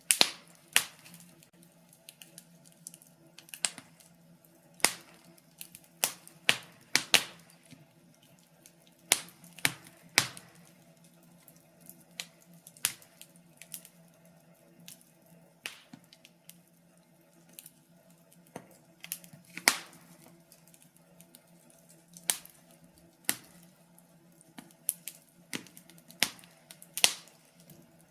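Wood fire crackling: irregular sharp pops and snaps, sometimes one every second or two, sometimes several close together, over a faint steady low hum.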